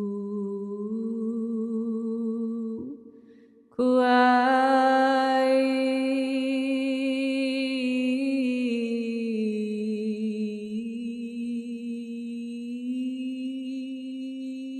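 A woman's voice humming long held notes: one of about three seconds, a brief breath, then a brighter note held for over ten seconds that drifts slowly in pitch.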